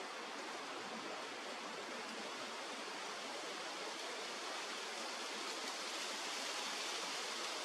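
Steady rush of flowing river water, an even hiss with no distinct events, a little brighter near the end.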